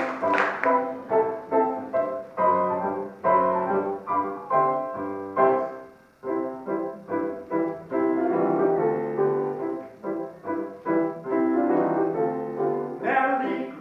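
Solo piano playing the introduction to a song, a run of separate notes and chords.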